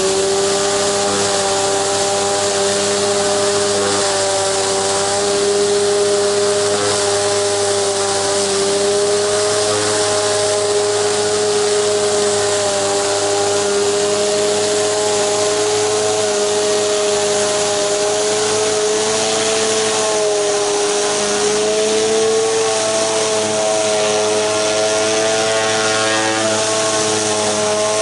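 Gas pressure washer engine running steadily while a Briggs and Stratton surface cleaner sprays water onto concrete, a steady hum that wavers slightly in pitch over a constant hiss of spray.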